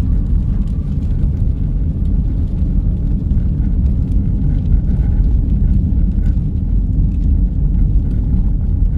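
Steady low road and engine rumble of a car driving through snow, heard from inside the cabin.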